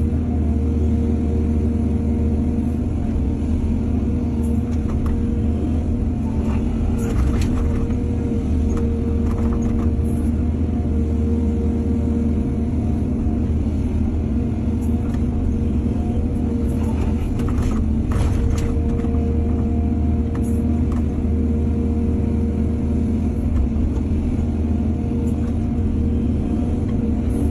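Excavator's diesel engine running steadily with a deep hum, with a few brief knocks and scrapes about seven and eighteen seconds in.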